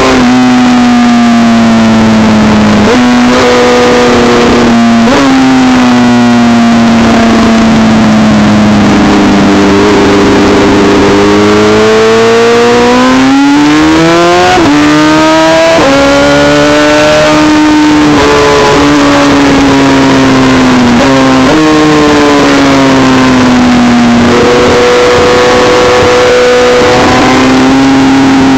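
BMW S1000RR inline-four engine heard onboard at track pace, loud and constant under a rush of wind. Its pitch sags and climbs with the throttle and jumps sharply several times as the rider shifts, dropping from third to first for the slow corners.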